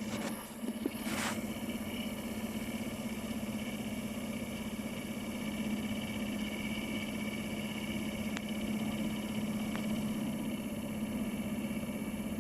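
Steady mechanical hum from a BMW E9x's heater blower fan running, with a short burst of noise about a second in.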